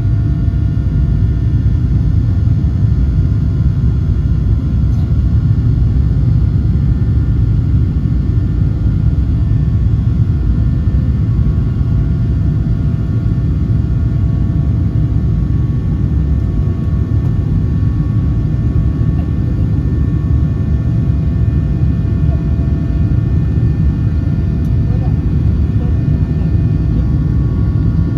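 Boeing 737-800 cabin noise in flight: a steady low rumble with several steady whining tones from its CFM56-7B turbofan engines, heard from inside the cabin.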